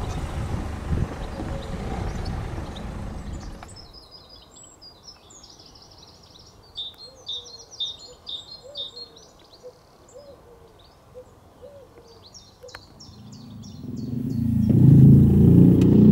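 Wild songbird singing in quick chirping phrases over a quiet background, after a few seconds of rumbling noise. Near the end a motorcycle approaches, its engine swelling to become the loudest sound.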